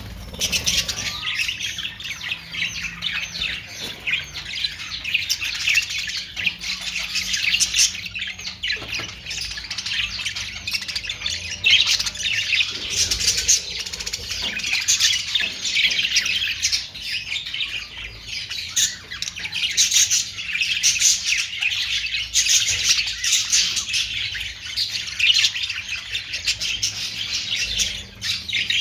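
A flock of caged Australian parrots chattering and squawking without a break, many short high chirps overlapping at once.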